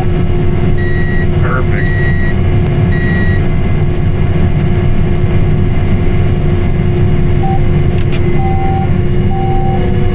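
Tractor engine running steadily, heard from inside the cab, with three short high electronic beeps about a second in and three shorter, lower beeps near the end.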